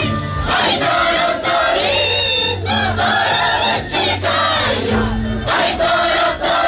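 A group of voices singing a high-pitched festival song together, with low steady tones underneath that come and go.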